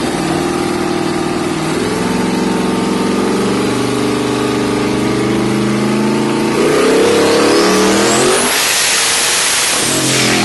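Twin-turbocharged 5.3 L LS V8 pulling at full throttle, its revs climbing steadily. Past the halfway point a turbo whistle rises and a loud rushing hiss builds, and both stop suddenly as the throttle is let off near the end.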